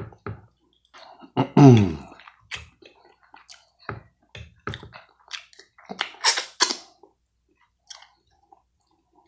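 Close-miked eating of syrupy, buttered pancakes: wet chewing with irregular lip-smacking clicks. About a second and a half in there is a short, loud voiced sound falling in pitch, and around six seconds a brief loud noisy burst.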